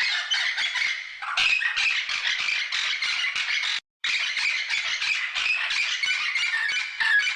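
A flock of birds squawking continuously, many harsh calls overlapping, cut off by a brief silence just before the middle and then carrying on.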